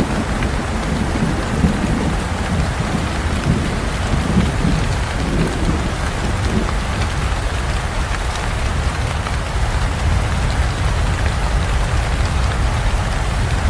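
Steady heavy rain falling. A low, rolling rumble of thunder runs through the first half and fades out about seven seconds in.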